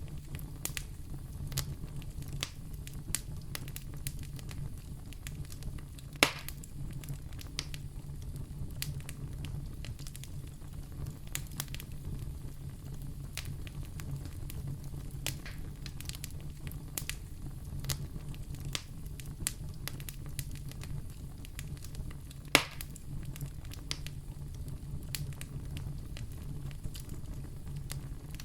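Wood fire burning in a fireplace: a steady low rumble of flames with irregular crackles and snaps, and two louder pops, one about six seconds in and one near the end.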